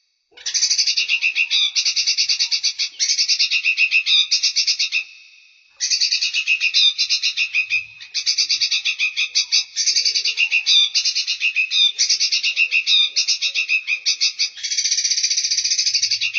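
Songbird singing in fast, pulsed trills. The trills come in back-to-back phrases about a second long, with a short pause about five seconds in.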